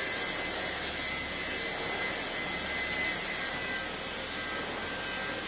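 Coal pulverizer running at a reheating furnace, a steady rushing machine noise with no breaks and a few faint steady whining tones in it.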